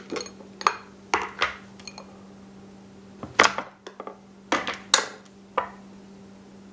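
Kitchen clatter of dishes and utensils: a string of irregular clinks and knocks, loudest about three and a half and five seconds in, over a steady low hum.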